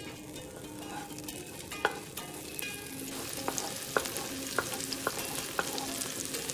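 Fermented black beans and minced garlic sizzling in hot oil in a nonstick wok. A spatula stirs them, tapping and scraping the pan about twice a second in the second half.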